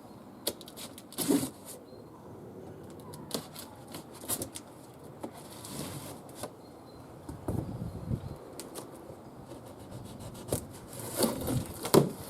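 Unboxing of a lawn mower: cardboard and packing being handled, with irregular rustling, scraping and knocks. A louder knock comes about a second in and the loudest near the end.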